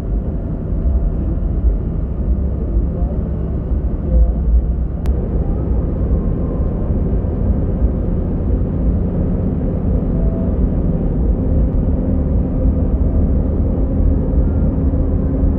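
Diesel bus running along the road, heard from inside the driver's cabin: a steady low engine and road rumble, with a single faint click about five seconds in.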